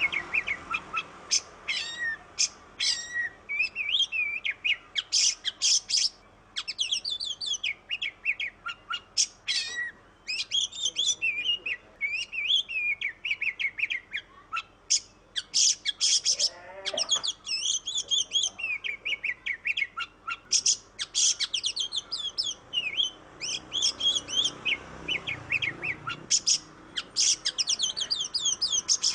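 Oriental magpie-robin (kacer) in full song: a continuous, varied stream of rapid whistled phrases, trills and chattering notes with only brief pauses.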